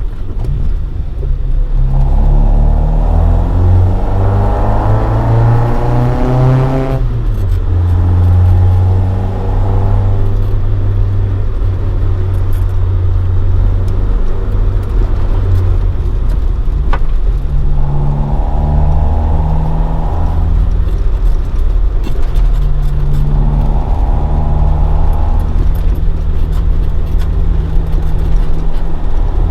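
AE86 Trueno's swapped-in AE111 20-valve four-cylinder, on individual throttle bodies and a Fujitsubo Legalis R exhaust, accelerating with its pitch climbing for about five seconds, then dropping sharply at a gear change or lift-off. After that it cruises at lower revs, with a few short bursts of throttle.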